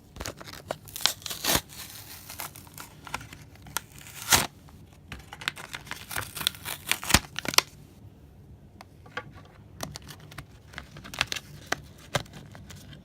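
Toy packaging being torn and crinkled open by hand, a run of sharp rips and crackles. It is busiest through the first half and loudest in two rips near the middle, then thins to scattered clicks and rustles in the last few seconds.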